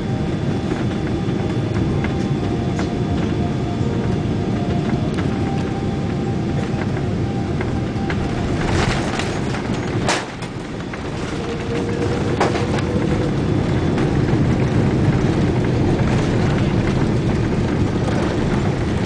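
Cabin noise inside a Boeing 777-200 around landing: a steady low rumble of the engines and rushing air, with a few faint steady whines. It sounds muffled, as the phone's microphone is partly covered. A sharp knock comes about ten seconds in, followed by a brief dip, and the rumble then grows a little louder.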